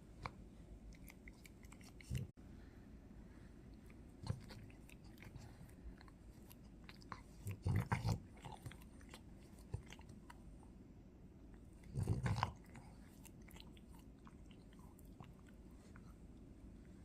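A drowsy French bulldog's faint mouth and nose noises: scattered soft smacking clicks, with two louder snuffles, one near the middle and one about three quarters of the way through.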